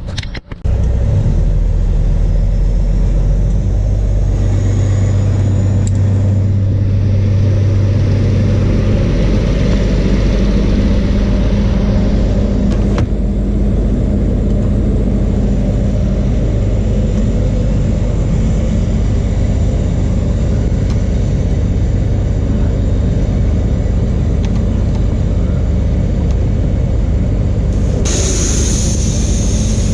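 Straight-piped ISX Cummins diesel of a Peterbilt 379 tow truck running loudly as the truck is driven and turned around, a deep steady rumble that is heaviest in the first several seconds. A short hiss comes near the end.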